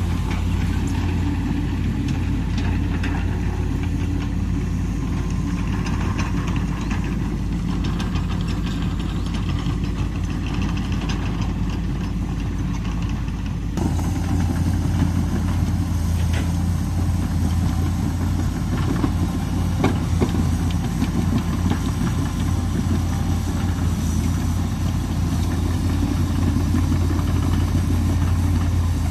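Komatsu PC200 excavator's diesel engine running steadily with a deep, even hum. About halfway through the sound shifts abruptly, and a few faint clicks follow.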